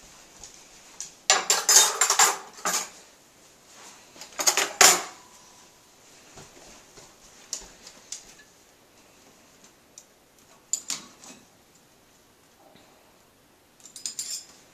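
Metal silverware clattering as it is put away into a drawer. There are clusters of clinks: a longer run about a second in, another around four and a half seconds, a few about eleven seconds in, and more near the end.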